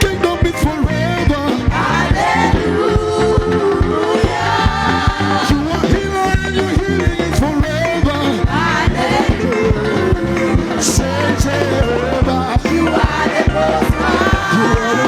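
Gospel praise and worship music played by a live band with a steady beat, with voices singing over it.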